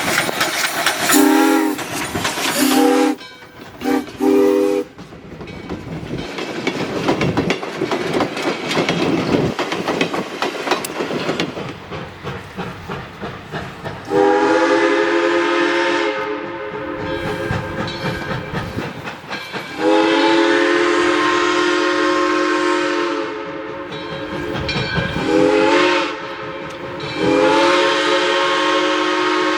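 Steam locomotive #18, a 2-8-0 Consolidation, blowing its chime whistle, several tones sounding together: a few short toots at the start, then long, long, short, long, the grade-crossing signal. In between, the locomotive's exhaust chuffs under a steady hiss.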